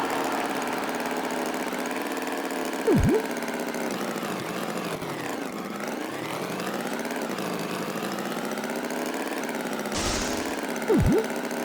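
Cartoon tractor engine sound effect running steadily, its pitch dipping and rising again around the middle. Two short, loud swooping effects cut in, about three seconds in and near the end.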